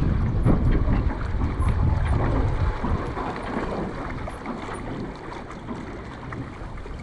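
Wind buffeting the microphone in gusts, a heavy low rumble that is strongest for the first few seconds and then eases off.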